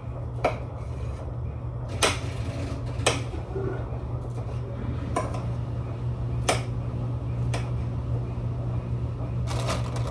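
A kitchen knife knocking on a cutting board as pineapple is cut up: about six separate, sharp knocks at irregular intervals, the loudest about two seconds in, over a steady low hum.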